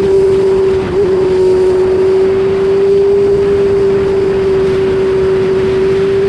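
BMW S1000RR's inline-four engine running at high, steady revs under wind and road noise, with a brief dip in the note about a second in.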